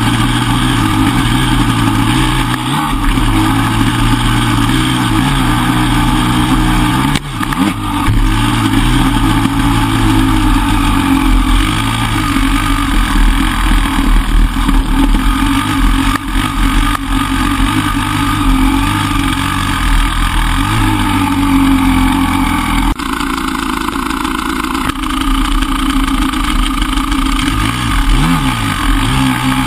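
Enduro dirt bike engine running under way, its revs rising and falling with the throttle as it is ridden along a rough trail. The engine note drops about three-quarters of the way through.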